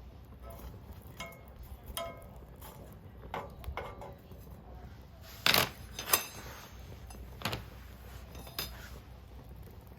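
Metal clinks and clanks of cookware being handled, several ringing briefly, with two louder knocks about five and a half and six seconds in.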